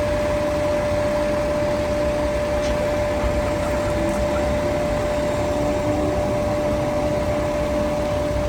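Steady mechanical hum of a running vehicle, with a constant high-pitched whine and a low rumble underneath.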